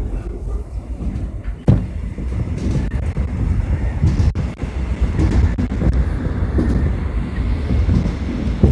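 Seoul Subway Line 4 train running along the track with a steady low rumble. One sharp knock comes about two seconds in.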